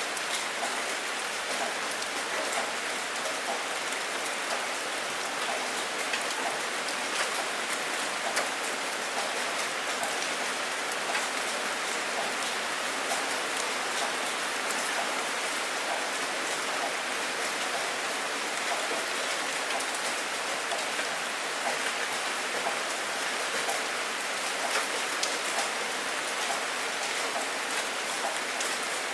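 Steady heavy rain falling, with many close drops striking sharply on a surface.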